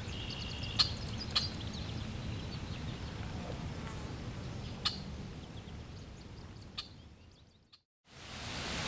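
Birds chirping over a low steady rumble, with a few sharp clicks; the ambience fades out to silence about seven and a half seconds in. Near the end a steady hiss of rushing water fades in.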